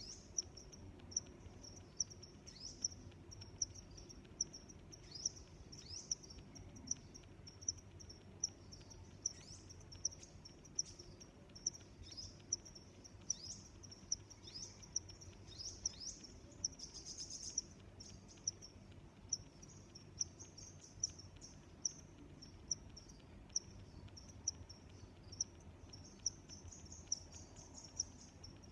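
Crickets chirping: a continuous high-pitched pulsing trill, with a louder chirp about once a second. Brief downward-sliding chirps come and go in the first half.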